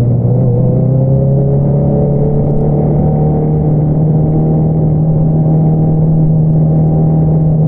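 2022 Honda CBR650R inline-four running through an Akrapovič single-outlet exhaust at a steady cruise, its pitch rising slightly in the first second and then holding even.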